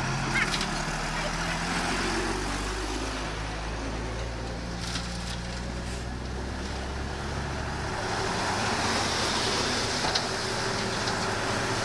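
Diesel engine of heavy earthmoving machinery running steadily, its lowest note dropping away about eight seconds in.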